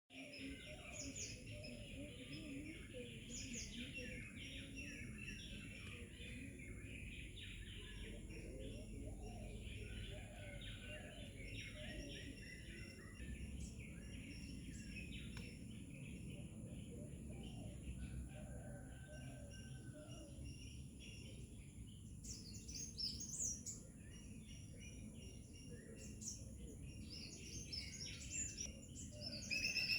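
Wild birds chirping and singing, with many short overlapping calls and trills, over a low outdoor rumble and a steady high-pitched tone.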